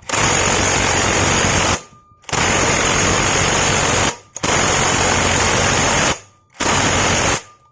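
Impact wrench with a 19 mm socket hammering in four bursts, the first three nearly two seconds each and the last shorter, on a nut in the scooter's CVT. The nut does not break loose: it is too tight for the tool.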